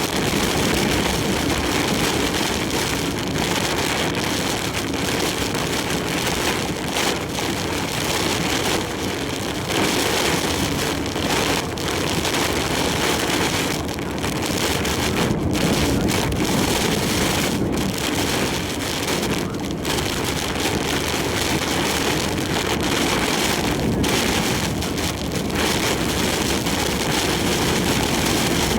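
Heavy typhoon rain and wind pounding a large truck's cab as it drives at highway speed, heard from inside the cab: a dense, steady rush of rain over tyre and road noise.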